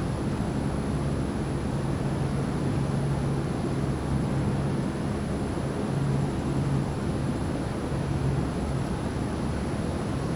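Steady rush of thunderstorm wind and rain, heavy in the low end with no thunderclap.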